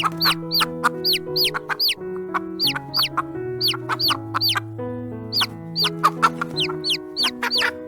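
Chicks peeping: short, high, falling calls, two or three a second, over gentle background music with held notes.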